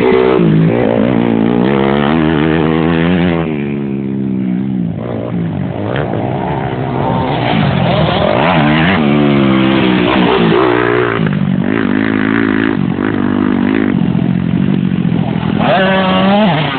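Motocross dirt bike engines revving hard, their pitch climbing and dropping repeatedly as the riders accelerate and shift, with more than one engine heard at once at times.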